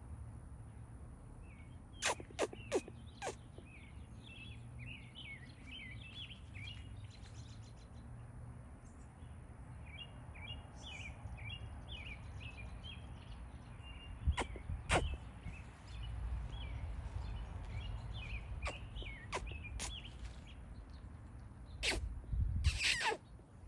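Small birds chirping in many quick, short calls over a steady low rumble. Several sharp clicks come through, and a louder rustling burst near the end.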